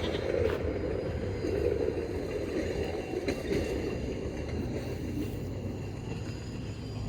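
2007 Duramax LBZ 6.6-litre V8 turbodiesel running, a steady rumble that grows slightly quieter toward the end.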